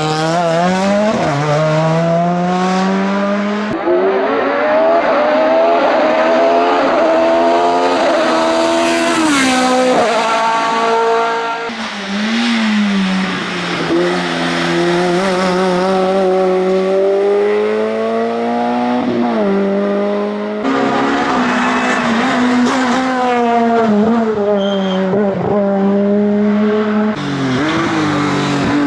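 Hillclimb race car engines at high revs, the pitch climbing through the gears and dropping on the lift-off and downshifts. Several separate passes are cut together, so the sound changes abruptly a few times.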